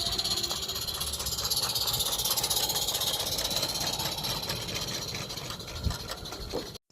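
Live-steam 16 mm scale model locomotive hissing steam steadily, swelling midway and then cutting off suddenly near the end.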